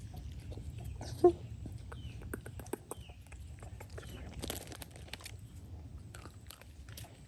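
Crunching and clicking of an animal eating, with one short, loud pitched animal call about a second in, over a steady low rumble.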